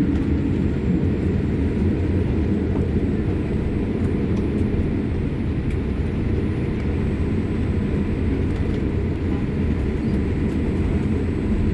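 Boeing 787-8 Dreamliner engines and low rumble heard from inside the cabin on the runway at takeoff, a steady, even noise.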